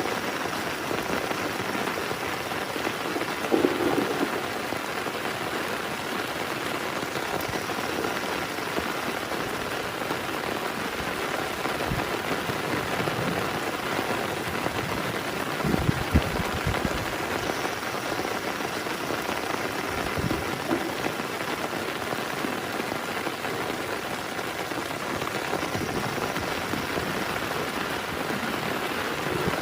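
Heavy rain falling steadily, with a few louder thuds about four seconds in and again near the middle.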